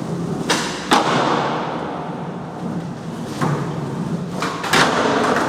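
Skateboard wheels rolling on a concrete garage floor, with sharp clacks of the board popping and landing: two about half a second and a second in, and a cluster around three and a half to five seconds in.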